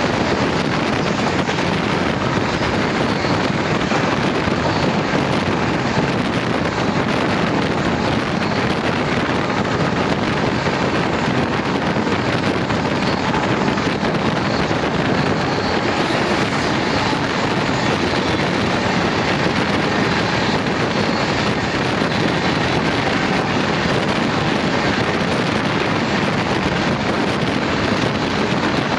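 Passenger train running at speed: a steady rumble of wheels on the track and rushing wind buffeting the microphone.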